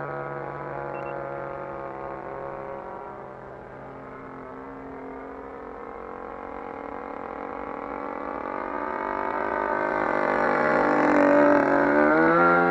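RCGF 20cc single-cylinder two-stroke gasoline engine of a Seagull Harrier 3D model airplane in flight. It fades as the plane draws away, then grows steadily louder as it comes back past, with the pitch bending and rising near the end.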